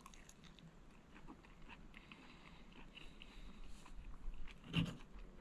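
Quiet chewing and biting of a mouthful of food, with scattered small clicks and a louder knock near the end.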